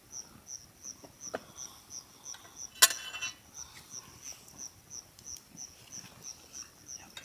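An insect chirping in an even pulse, about three short high chirps a second. A single sharp click or knock a little before the halfway point, with a few fainter clicks around it.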